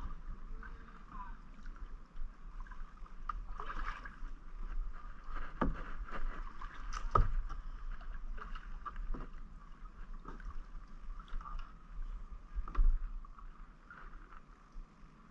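Kayak paddling: paddle strokes dipping and splashing in the water, with a few sharp knocks along the way.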